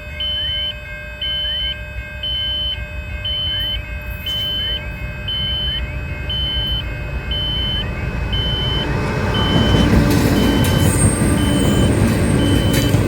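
Level crossing warning alarm sounding with a high electronic beep about twice a second. A low rumble from an approaching train grows louder in the second half.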